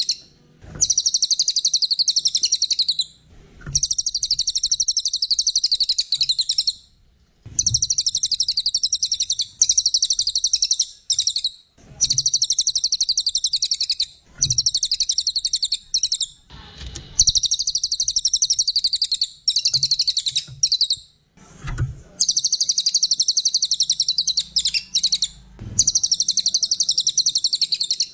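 Cililin, a small songbird, singing a run of fast, high-pitched chattering phrases, each about two to three seconds long with brief pauses between them.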